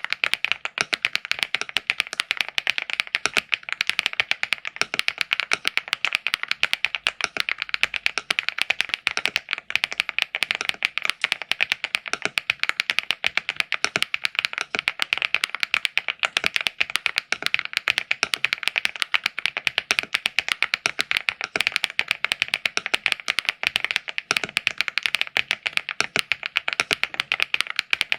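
Fast, continuous typing on a LEOBOG AMG65 mechanical keyboard: a dense, even stream of key clacks.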